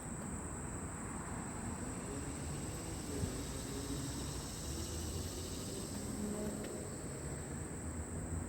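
Insects trilling in a steady, high-pitched, unbroken chorus, over a low steady rumble.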